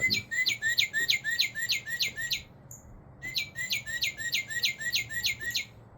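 Recorded northern cardinal song played from a Wild Republic Audubon plush toy at the press of its button. It plays two runs of quick, repeated down-slurred whistled notes, about five a second, with a short pause between the runs.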